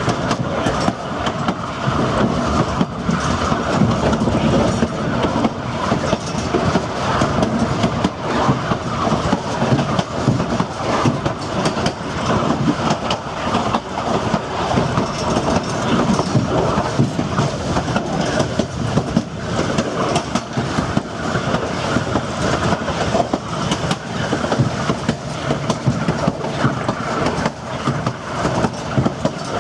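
Narrow-gauge railroad passenger car rolling along the track: a steady rumble of wheels on rail with many quick knocks and rattles from the rail joints and the car.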